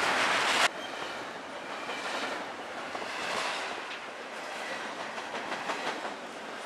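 Double-stack intermodal freight train's well cars rolling past close by: steady rumble and rushing, with wheels clicking over rail joints. A louder rush opens the sound and cuts off suddenly about half a second in.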